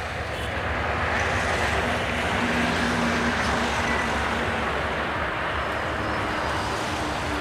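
Nilsagar Express passenger train running on the track: a steady rumble and rush of noise that swells slightly about a second in.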